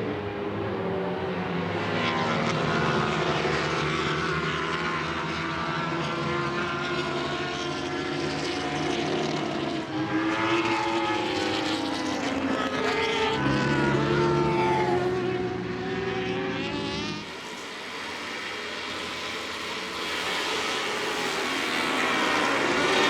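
Racing motorcycle engines at high revs, their pitch rising and falling as the riders shift gears and bikes go by. The lowest part of the sound drops away about seventeen seconds in.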